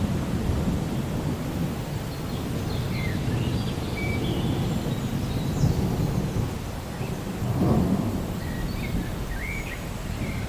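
Steady rain with low thunder rolling and swelling underneath, and short high chirps scattered over it.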